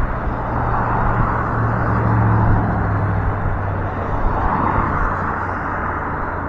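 Road noise from heavy traffic on the adjacent road: cars passing one after another with a tyre hiss that swells and fades, and a low engine drone that is strongest in the middle.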